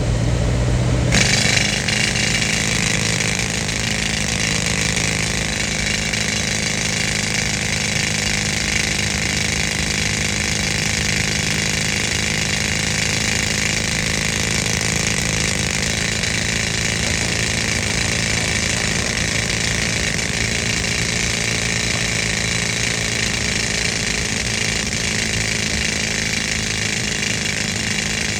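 Old air compressor's engine running steadily, joined about a second in by a pneumatic rock drill running off its air with a steady hiss.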